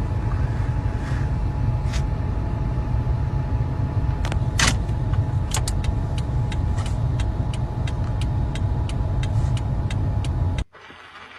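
Steady low rumble of a running vehicle, with a faint steady whine and scattered light clicks; it cuts off suddenly near the end.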